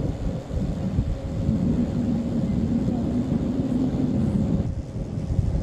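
Boat engine running steadily with a dense low rumble.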